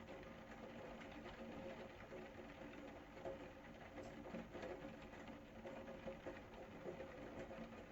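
Faint rain pattering as many small drops, with a steady low hum underneath.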